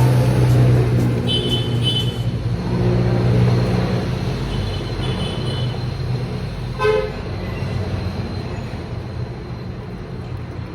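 Street traffic: a vehicle engine running past, with a short horn toot about seven seconds in.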